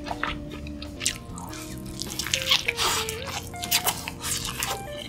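Close-miked wet chewing and mouth sounds, with short clicks and smacks, over background music.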